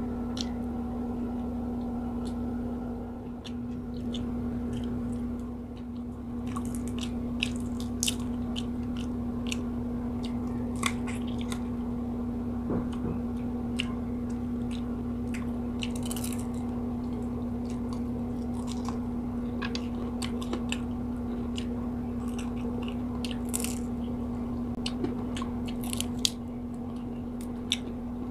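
Close-up chewing and crunching of fried tilapia and rice, eaten by hand, with many short crackling mouth sounds. A steady low hum runs underneath.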